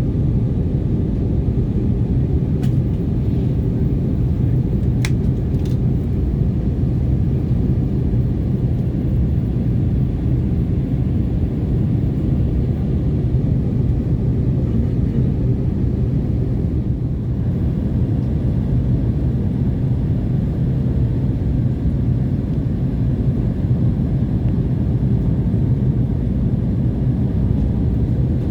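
Airbus A320-232 cabin noise on descent: the steady low rumble of its IAE V2500 engines and the airflow past the fuselage. A couple of faint clicks come about three and five seconds in.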